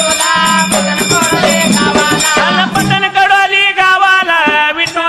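Dhangar ovi folk singing: a voice singing a wavering melody over rhythmic jingling of rattles or small cymbals, with a steady low drone that stops about three seconds in.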